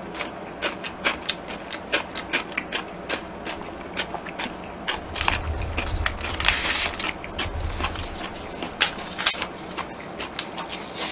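Close-miked eating: irregular wet chewing and mouth clicks, about two or three a second, with a longer rustling, breathy stretch about five to eight seconds in.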